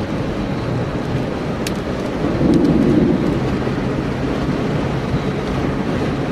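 Low rumble of thunder from a tornadic supercell, swelling for about a second near the middle, over the steady running noise of the chase vehicle, with a few sharp ticks.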